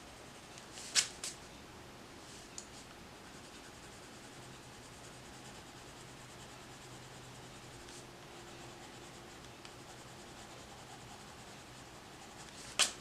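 Faint scratching of coloured pencil strokes on paper as colour is blended in, with a couple of sharp clicks about a second in.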